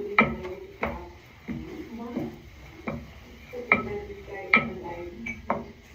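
A metal kitchen utensil knocking and clinking against cookware, about eight sharp knocks with a brief ring, roughly one every three-quarters of a second.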